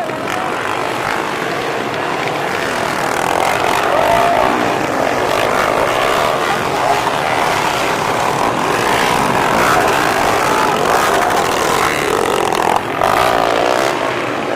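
Several underbone motorcycles with small four-valve engines racing at high revs, a dense engine drone that swells slightly a few seconds in.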